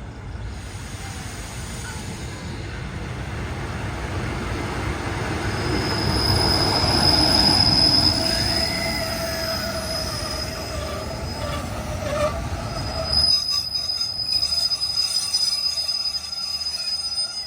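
State Railway of Thailand passenger train #43's cars rolling through the station, steel wheels squealing on the rails over a low rumble. The rumble grows to its loudest about halfway through. It falls away about three-quarters of the way in, while the high squeal carries on.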